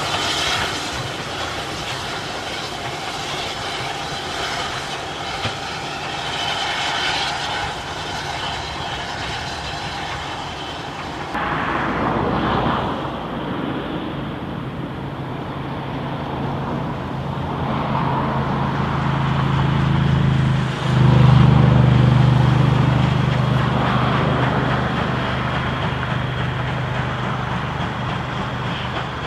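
A train on a heritage railway: a steady rushing noise at first, then an abrupt change about eleven seconds in to a low, steady drone that builds, is loudest a little after twenty seconds, and then eases off slightly.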